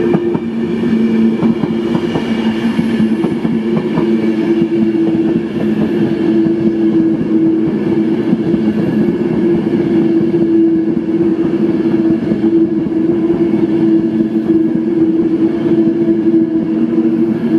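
Class 390 Pendolino electric train running past along the platform: a steady rush of wheels on rail with a continuous low hum held at an even pitch.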